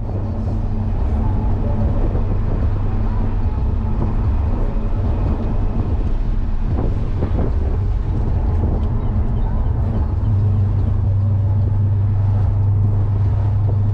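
Audi B7 RS4's 4.2-litre V8 running while the car drives, a steady low drone with road noise. The drone grows stronger and steadier about ten seconds in.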